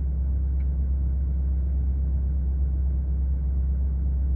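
Ford 6.7-litre Power Stroke V8 turbodiesel idling steadily while still cold, shortly after a cold start: an even, deep rumble.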